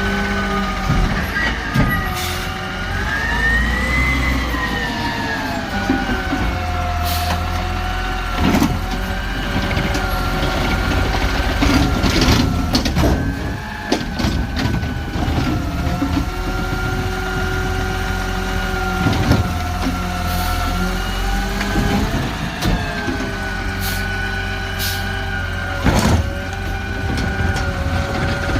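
Garbage truck running, with a whining note that rises and falls as the engine revs, over a steady low rumble, and several sharp knocks and clanks.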